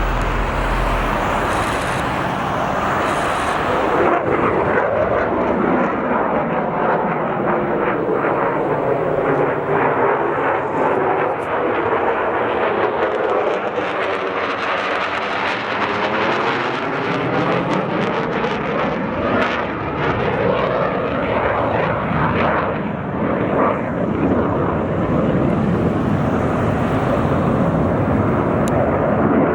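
Fighter jet making a low pass overhead: loud, continuous jet engine noise with a sweeping, phasing quality that dips and rises again in the middle as the aircraft goes by.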